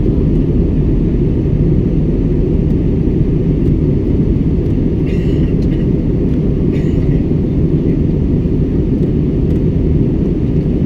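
Steady low noise of a jet airliner in flight, heard inside the passenger cabin. Two brief, faint higher sounds come about five and seven seconds in.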